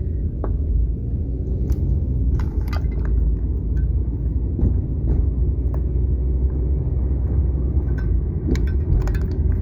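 Car driving along, a steady low road-and-engine rumble heard from inside the cabin, with scattered small clicks and rattles.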